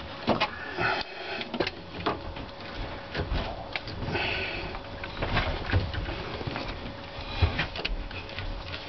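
Irregular knocks, clunks and scraping from hands working on dryer vent ductwork, with a faint steady hum underneath.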